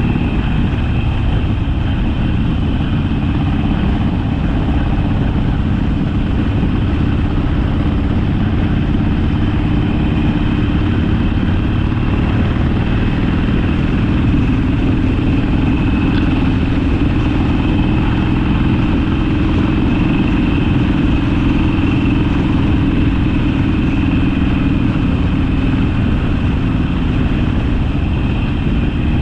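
Harley-Davidson Sportster's V-twin engine running under way at a steady pace, its note drifting gently up and down in pitch.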